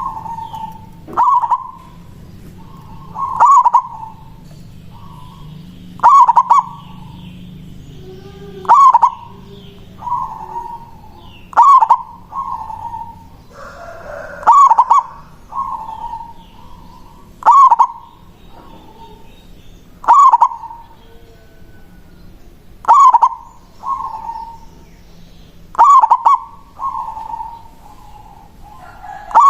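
Zebra dove (perkutut) singing its cooing song. A short phrase of cooing notes, each with a sharp start, repeats about every three seconds.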